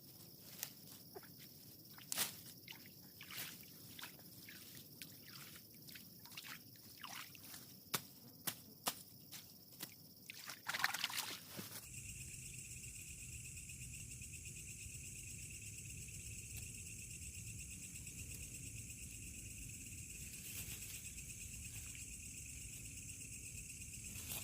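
Irregular footsteps, rustling and small clicks of handling gear at the water's edge, with a short louder rush of noise about eleven seconds in. From about halfway, a steady high-pitched chorus of night insects runs on without a break.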